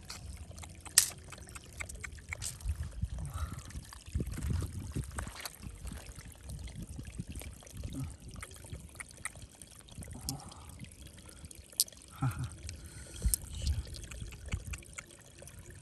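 Water trickling and splashing, with scattered sharp clicks and knocks.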